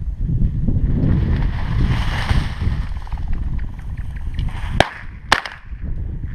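Wind buffeting the microphone with the rustle of movement through brush, and two sharp clicks about half a second apart near the end.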